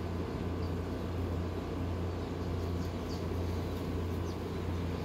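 A steady low rumble with no clear source, and a few faint, brief high chirps of small birds scattered through it.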